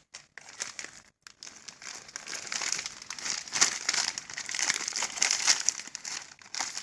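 Plastic bag of string beans crinkling as it is handled, with a brief lull about a second in.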